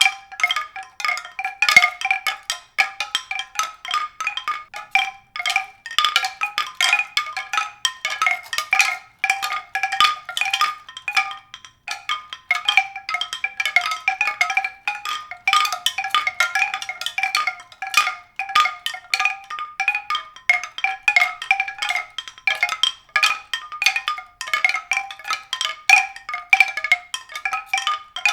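Mallet percussion music: a continuous stream of quick, high struck notes that ring briefly, several a second, with no low notes.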